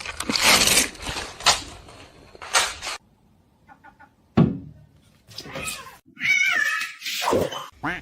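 A domestic cat meowing, with a bending, wavering call about six seconds in. Several loud, short noisy sounds come in the first three seconds.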